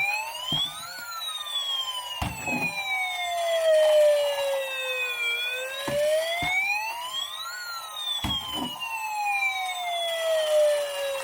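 Battery-operated toy fire truck's electronic siren wailing: a tone rising quickly then falling slowly, repeating about every six and a half seconds. A few short knocks sound along the way.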